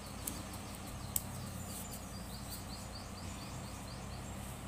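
A bird chirping in a quick series of short, high, falling notes, over a steady low hum, with one sharp click about a second in.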